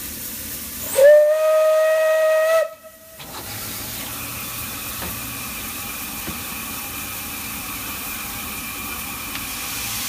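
Steam whistle of the Isle of Man Railway's Beyer Peacock tank locomotive No.12 Hutchinson: one blast of about a second and a half, sliding up in pitch as it opens and cutting off sharply, followed by a steady hiss.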